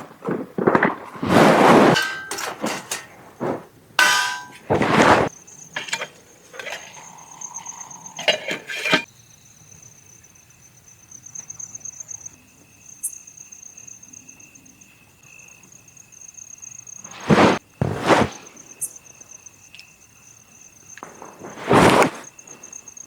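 Knocks, clanks and rustling of gear being handled, coming thickly through the first several seconds and again in two short bursts later, over a steady high insect trill.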